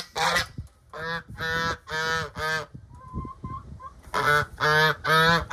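Geese honking in a run of repeated calls, pausing about halfway through, then honking again near the end.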